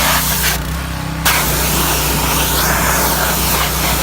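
Pit bike engine idling steadily under a loud rushing hiss. The hiss cuts out briefly about half a second in and comes back abruptly.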